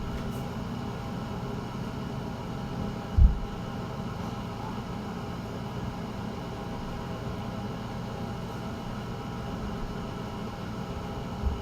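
Steady background hum and hiss with several faint steady tones, broken by a single low thump about three seconds in.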